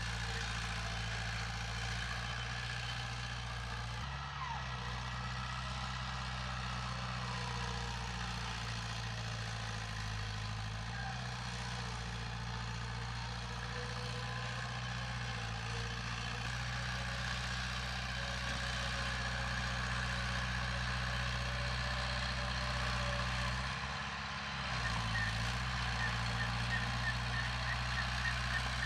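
Diesel engine of heavy earthmoving machinery running steadily, its pitch shifting a few times as the load changes.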